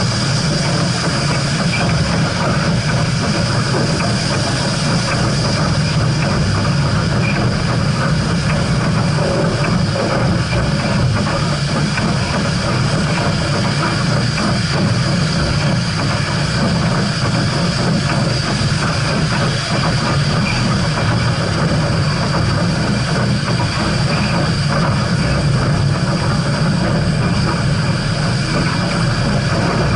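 Steam-hauled train running on the rails: a steady, unbroken rumble with a thin high tone held above it.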